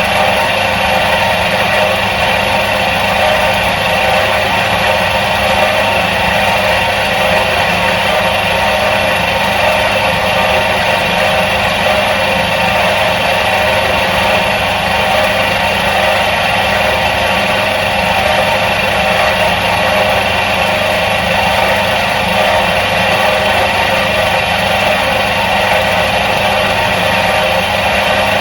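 Electric motor of a 1977 Soviet washing machine running steadily: an unchanging hum with several fixed tones layered over it.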